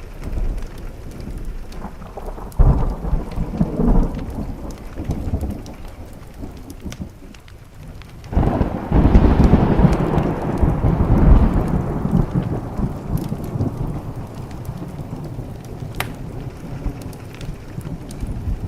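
Thunder rolling over steady rain: a short rumble about three seconds in, then a longer, louder roll starting about eight seconds in that fades away over several seconds.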